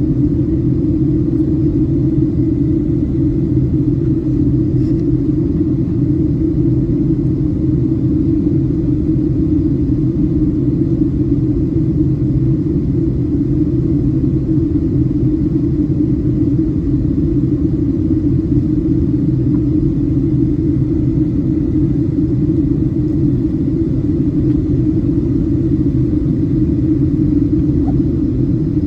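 Cabin noise of a Boeing 737-700 in flight: a loud, steady deep drone of engines and rushing air, unchanging throughout.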